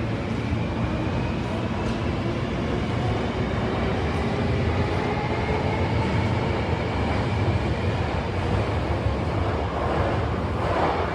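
Electric passenger train pulling into a station: a steady rumble with a faint whine that slowly falls in pitch as it slows, and a short burst of noise near the end.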